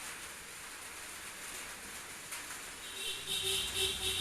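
Steady rain falling, with a short pitched sound rising over it about three seconds in.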